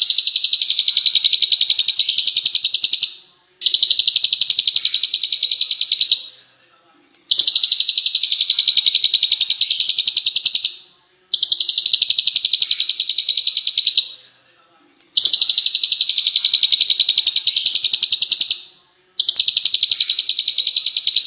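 Recorded songbird call played as a masteran tutoring track: a high, very fast trill of rapidly repeated notes lasting about three seconds, repeated six times with short pauses between, as in a loop.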